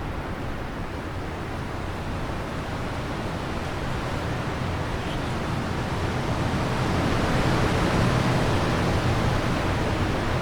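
Wind blowing in a steady rush that swells into a stronger gust about two-thirds of the way through.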